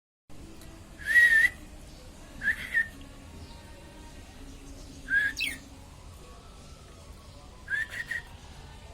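Budgerigar giving four short whistled calls, each about half a second long and a couple of seconds apart, the pitch wavering up and down within each call.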